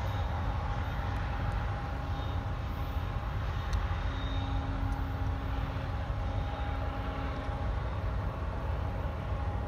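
BNSF grain train's covered hopper cars rolling past, a steady low rumble of wheels on rail, with a faint steady hum joining about four seconds in.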